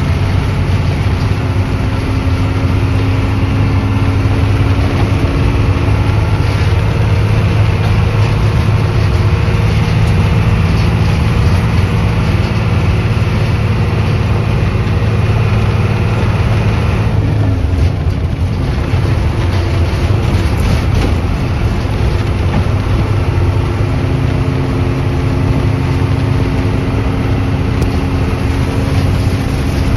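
Diesel engine of a Hino 1J bus running on the road: a steady drone with road noise. Its engine note eases off a little past halfway and builds again a few seconds later.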